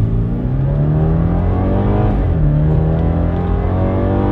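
2018 BMW 430i Gran Coupe's turbocharged 2.0-litre four-cylinder accelerating hard at full throttle, heard from inside the cabin. The engine note climbs, drops once at an upshift about two seconds in, then climbs again.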